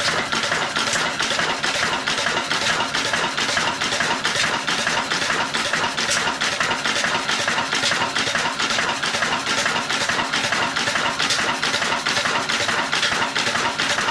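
Old Ruston Hornsby stationary diesel engine running steadily, powering a chakki flour mill, with an even, rapid beat.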